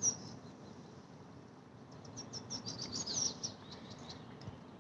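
A small songbird calling: a single high chirp at the start, then a quick run of short high chirps about two seconds in lasting over a second, over a faint outdoor background hiss.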